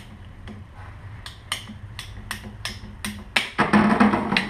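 Hand PVC pipe cutter being worked on plastic PVC pipe: a run of sharp clicks about three a second, then a louder crunching stretch near the end as the blade bites into the pipe.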